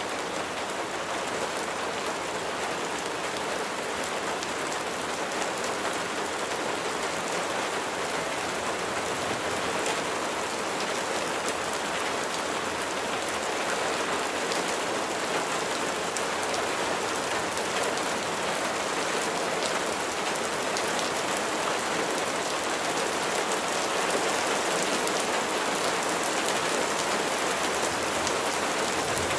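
Steady rain, a dense hiss of raindrops falling on a surface with fine individual drop patter throughout.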